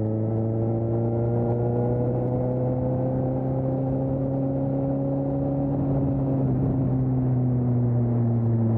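Suzuki GSX-S750's inline-four engine running through an aftermarket Storm exhaust while riding at a fairly steady speed. The note rises gently, holds, then eases down a little about two-thirds of the way in.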